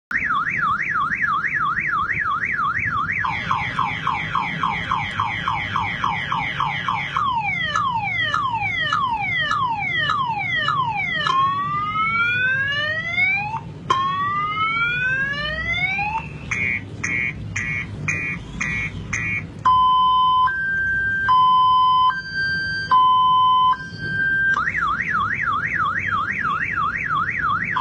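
Electronic multi-tone car alarm siren cycling through its sounds: a fast up-and-down warble, slower wails, falling sweeps, rising whoops, rapid beeping, then a high-low two-tone. Near the end it starts the fast warble again.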